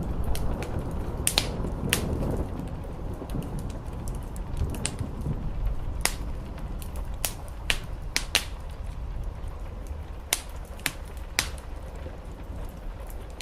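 Wood fire crackling, with irregular sharp pops, over a low rumble that is heavier in the first few seconds.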